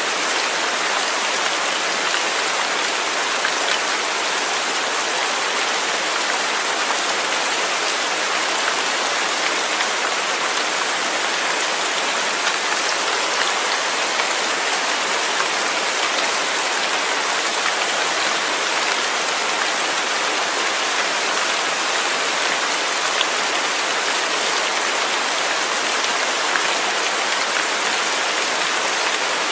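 Steady rain falling, an even hiss of many drops with faint patters, holding the same level throughout.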